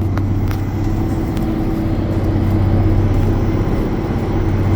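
Steady running noise of the Limited Express Hokuto diesel train heard inside the passenger car: a low engine hum under the rumble of the wheels on the track, with a few faint clicks.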